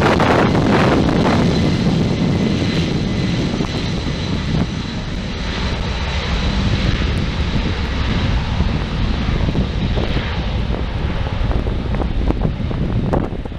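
Wide-body jet airliner's engines passing close, with a steady high whine over the noise. The sound is loudest at the start, eases over the first few seconds and settles into a lower rumble, with wind on the microphone.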